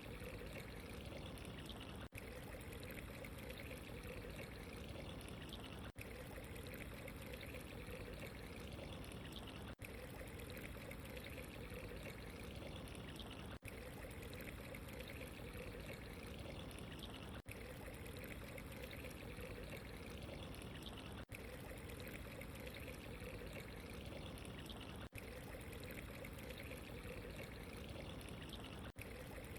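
Running water trickling and pouring steadily, with a brief dip in level about every four seconds.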